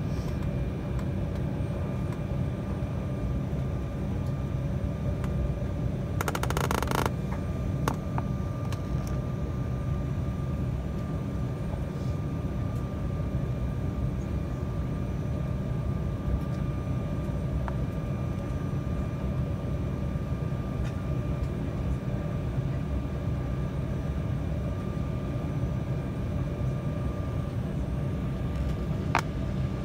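Steady cabin noise inside an Embraer 195 airliner with its GE CF34 turbofans at low taxi power: a constant low rumble with a thin, steady whine over it. About six seconds in there is a brief rustling hiss, and a couple of sharp clicks follow later.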